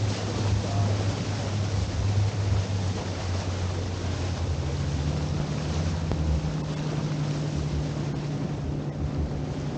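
Tour boat's engine running with a steady low hum that steps up in pitch about halfway through, under wind buffeting the microphone and the rush of water.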